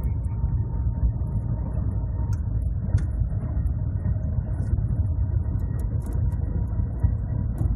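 Cabin noise of the Shanghai Maglev train running at high speed while accelerating: a steady low rumble with a faint steady tone above it.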